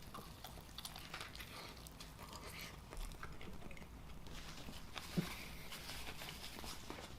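A person chewing a mouthful of burger, faint and close to the microphone: soft, scattered mouth clicks, with one slightly louder click about five seconds in.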